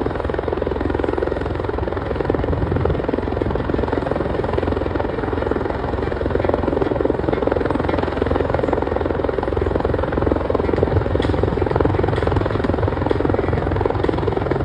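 Helicopter running steadily overhead, a continuous loud rotor chop and engine noise with no pauses.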